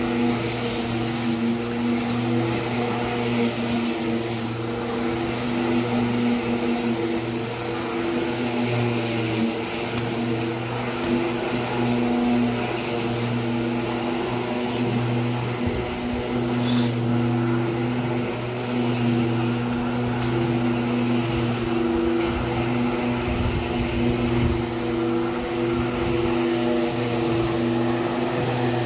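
Ozito ELM-1545 1500 W corded electric lawn mower running steadily while cutting grass: an even motor-and-blade hum.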